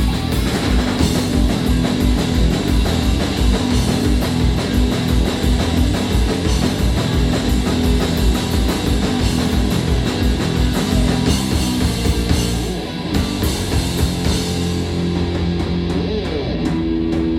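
Punk rock band playing live: distorted electric guitars, bass and drum kit in an instrumental passage with a fast, driving beat that drops away about twelve seconds in, leaving held guitar notes.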